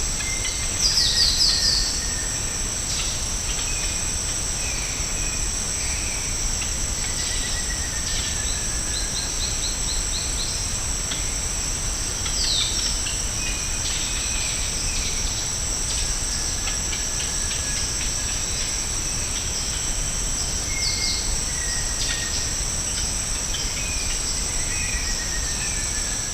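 Tropical rainforest ambience: a steady, high-pitched insect drone, with assorted bird calls scattered over it. The calls include short whistled notes, a quick series of repeated notes and falling trills, and the loudest is a burst of sharp falling notes about a second in.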